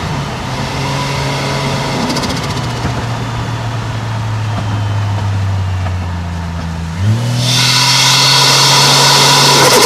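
Toyota 1JZ-GTE turbocharged inline-six in a moving car, running steadily at low revs. About seven seconds in, the revs jump suddenly and the engine pulls hard and louder under load.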